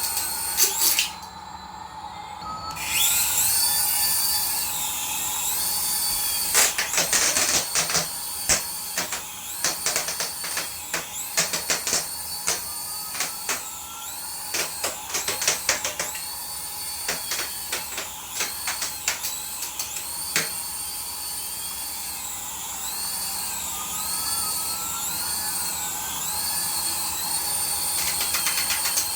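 Battery-powered toy running: a small electric motor whirring, with repeated rising electronic whistles and bursts of rapid plastic clicking.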